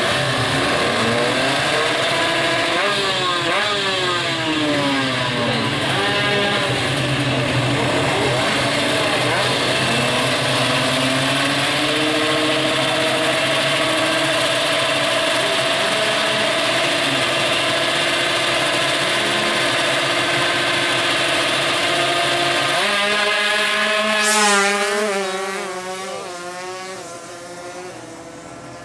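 Two-stroke 155cc drag bike engines running loud. They rev up and down, then hold high revs. About 23 s in they climb in pitch through the gears as they accelerate away, fading.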